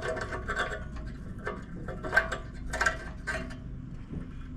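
Metal engine parts clinking and tapping as they are handled and fitted, a few separate clinks, the sharpest about two seconds in and another just before three seconds.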